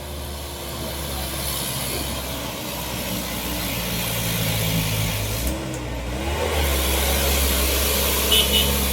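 Diesel truck engine running under load on a hill climb, growing steadily louder as it draws nearer.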